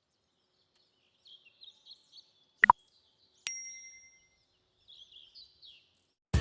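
Faint bird chirps, a run of short high calls, with a sharp double click about two seconds in and a bright bell-like ding a second later that rings out briefly.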